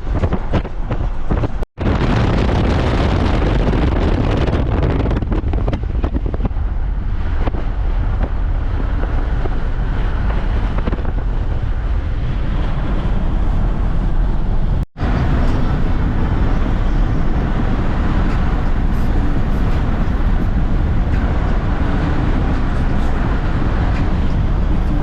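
Wind buffeting the microphone and road noise of a moving vehicle, a loud, steady rush heaviest in the low end. It cuts out briefly twice, about two seconds in and again around the middle.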